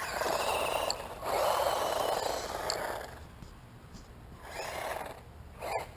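Flame Peace S916 RC truck's electric motor whining through several short bursts of throttle as the truck speeds off and slows, with a sharp click near the end.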